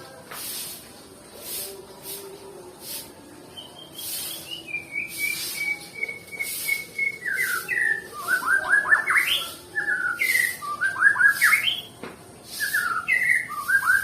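White-rumped shama (murai batu) singing: a run of whistled notes stepping down in pitch, then bursts of quick up-and-down sweeping notes, louder in the second half.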